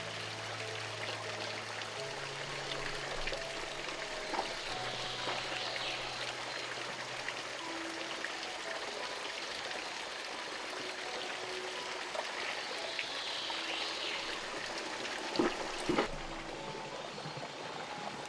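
Steady rush of running water, as from a stream, with soft background music of sustained notes. Two short knocks come near the end, followed by an abrupt change in the sound, as at a cut.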